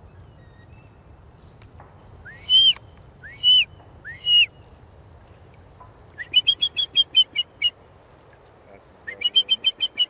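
A bird calling: three separate upward-sweeping whistled notes, then two fast runs of short, clipped, slightly falling notes.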